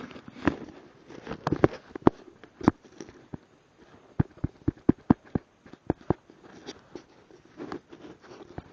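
Irregular sharp clicks and knocks of objects being handled close to the microphone, about a dozen hard taps, thickest through the middle.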